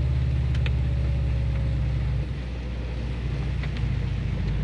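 A car engine running steadily with a low hum. It drops slightly in level and changes note about two seconds in.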